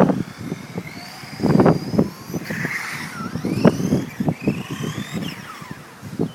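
Ansmann Blizzard 1/10 electric RC car driving, its 21-turn electric motor whining up and down in pitch as it speeds up and slows, with irregular low thumps.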